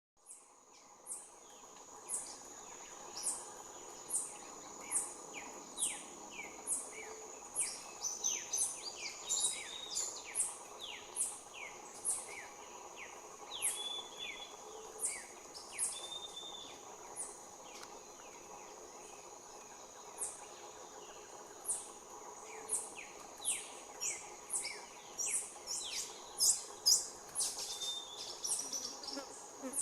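Outdoor ambience of several birds calling: a high short note repeated about once a second, with bursts of quick falling chirps near the middle and near the end, over a steady high insect drone.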